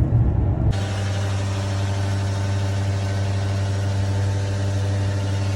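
Vehicle engine idling steadily with an even hum. Low road rumble for the first moment, then an abrupt change to the idle.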